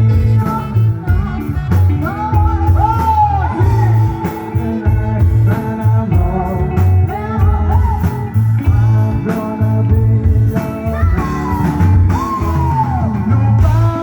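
A rock band playing with singing, a steady drum beat and bass under a melody that bends in pitch.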